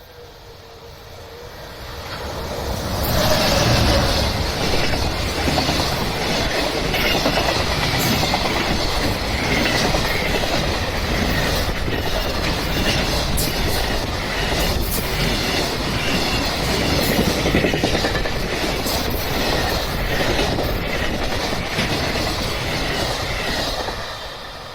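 A long train passing over a level crossing: the noise rises over about three seconds as it arrives, then wheels rumble and clack over the rail joints steadily for about twenty seconds before falling away near the end.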